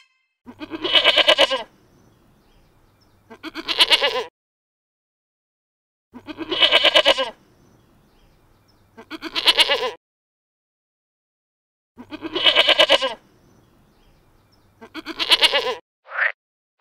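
Livestock bleating: six quavering bleats of about a second each, coming in three matching pairs, the pairs about six seconds apart.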